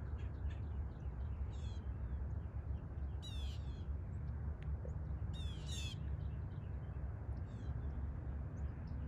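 Wild birds calling: four short bursts of high calls spaced about two seconds apart, over a steady low rumble.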